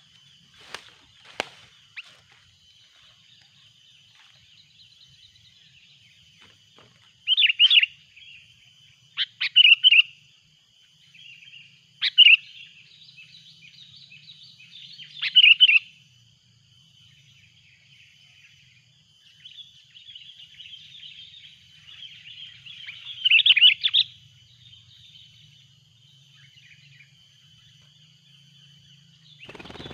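Sooty-headed bulbuls (kutilang) calling in loud, chattering bursts, about five of them a few seconds apart, over a steady high-pitched ringing background. Two sharp clicks come about a second in.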